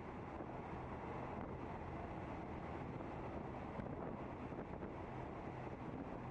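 Steady rumble of a moving train, even and unbroken, with a low engine hum underneath.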